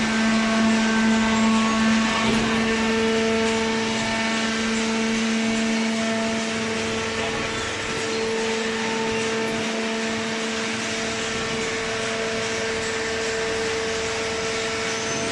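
Hydraulic cardboard baler running: a steady machine hum with two strong held tones over an even whir.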